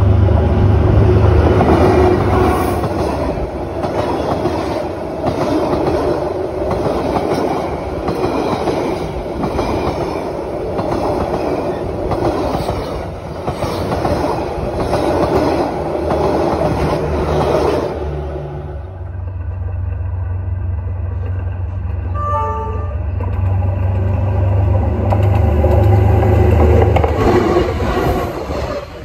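Diesel-hauled passenger train passing close by: a steady loud rumble with the repeated clatter of the coaches' wheels over the rail joints. About two-thirds of the way through the sound changes abruptly to a duller rumble of the train running on.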